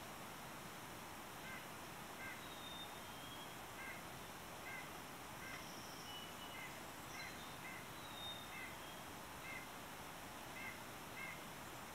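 Dawn chorus of wild birds. One bird repeats a short call about a dozen times, roughly one to two a second, while another gives thin, high whistled notes now and then, over a steady hiss.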